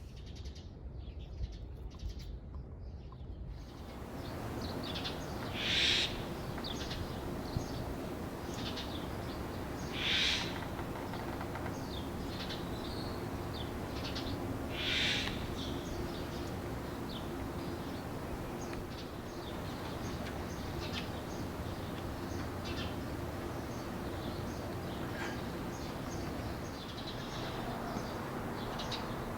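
Birds calling over a steady background hiss: three louder short harsh calls a few seconds apart, and many small chirps in between.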